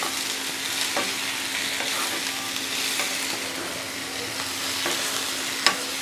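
Chopped tomatoes and sliced onions sautéing in oil in a nonstick pan, sizzling steadily while a wooden spatula stirs them, knocking against the pan now and then, with a sharper knock near the end.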